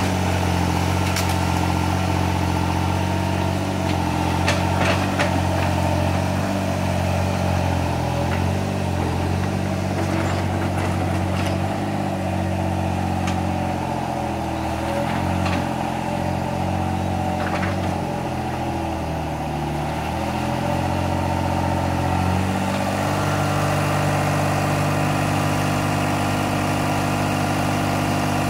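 Small hydraulic excavator's engine running steadily, its pitch dipping and wavering as the hydraulics take load, then settling back to an even note near the end. A few sharp metallic knocks sound in the first half.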